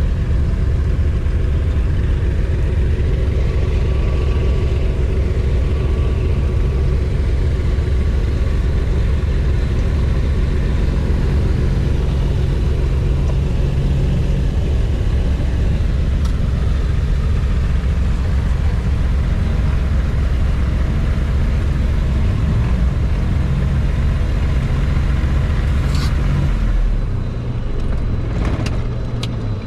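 The twin piston engines of a Cessna 402, heard from the co-pilot's seat in the cabin, running with a steady low drone. About 27 seconds in the drone drops away as the engines are shut down, and a few clicks follow.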